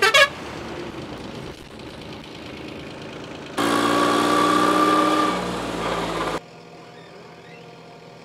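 Diesel machinery engines running steadily, broken by abrupt cuts. A quick falling chirp comes right at the start. About three and a half seconds in a louder stretch with steady tones begins, and it cuts off sharply to a quieter engine hum near the end.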